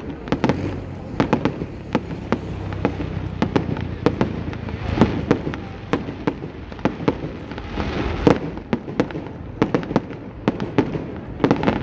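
Aerial fireworks bursting: a fast, irregular run of sharp bangs and crackles, several a second, without a break.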